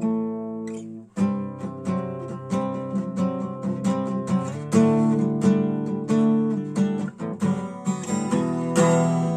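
Acoustic guitar strumming the song's chords in E minor in an instrumental break, with a brief gap about a second in before the strumming resumes steadily.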